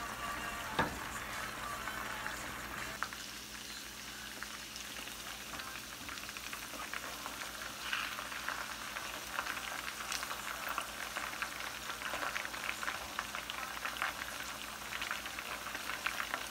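Pork ribs sizzling and crackling as they fry in hot oil in a pan, with one sharp knock about a second in; the crackling grows busier in the second half.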